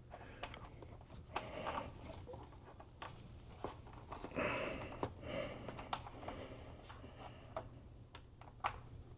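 Hands working parts inside an iMac's open case: scattered light clicks, taps and brief scrapes, with a few sharper snaps, over a steady low hum.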